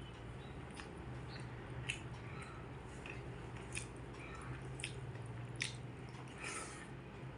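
A person eating: close-up wet, squishy chewing and biting sounds of soft rice-and-curry food, with scattered short clicks. A low steady hum runs underneath.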